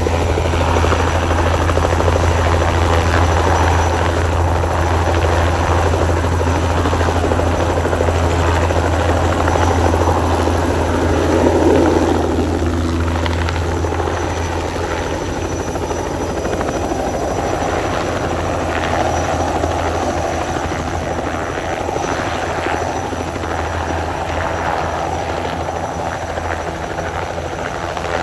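Helicopter flying with its rotor and engine running steadily, a constant low rotor beat underneath. It swells louder briefly about twelve seconds in.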